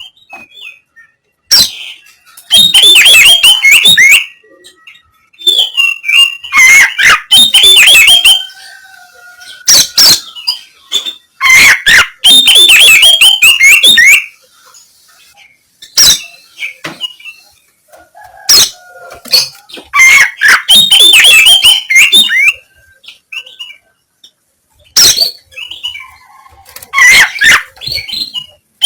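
Oriental magpie-robin (kacer) singing harsh, rough 'kasaran' phrases: about five loud bursts of rapid chattering notes, a few seconds apart, with single sharp clicks in the gaps.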